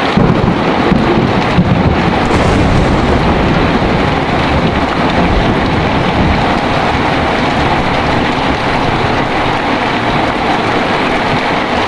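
Heavy rain pouring steadily, with a deep rumble of thunder that starts suddenly at the beginning and is strongest for the first few seconds before settling into the rain.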